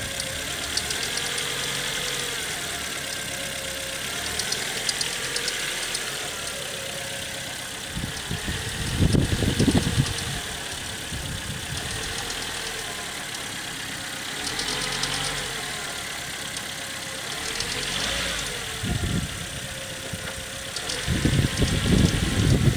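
Ford Fiesta Mk6 1.4 16V four-cylinder petrol engine idling steadily, with a few louder low rumbles, the longest about nine seconds in and near the end.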